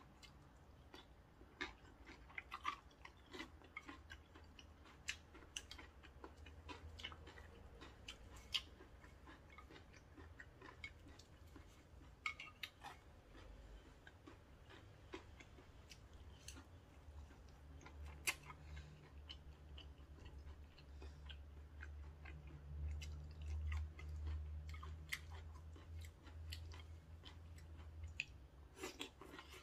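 Close-miked chewing of cold noodles and julienned vegetables, with scattered sharp clicks of wooden chopsticks against the bowl. A low steady hum runs underneath, swelling in the second half.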